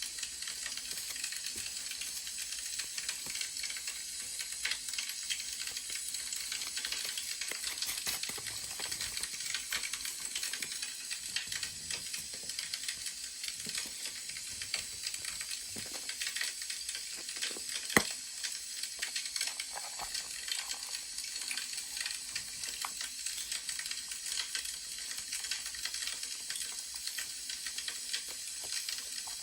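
Crackling wood fire: a steady hiss with scattered small pops and crackles, and one sharper click about eighteen seconds in.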